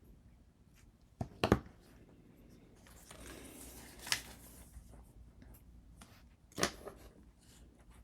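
Small handling sounds at a craft work table: sharp clicks and taps, a brief rubbing sound about three seconds in, and another click pair near the end.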